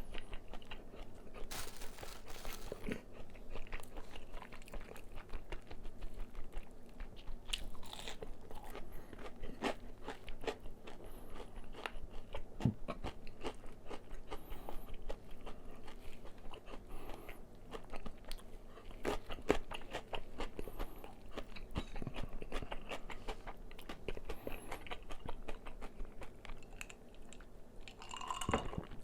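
Close-miked crunching and chewing of crispy fried chicken batter, a steady run of irregular crackly bites and chews.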